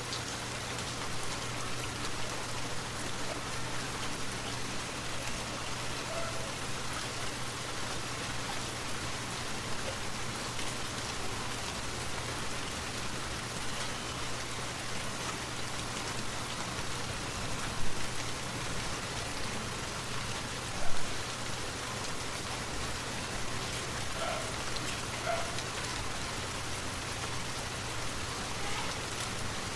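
Forest waterfall: a steady, even rush of falling water. Two brief louder sounds stand out, about three seconds apart, a little past the middle.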